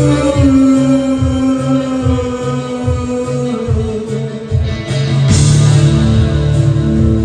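Live new-wave band playing: a pulsing bass rhythm under long held notes, the first sliding up in pitch right at the start.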